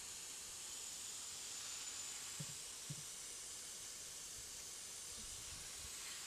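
Water poured from a bottle over motorbike exhaust pipes, a steady hiss of splashing water, with two faint knocks about halfway through.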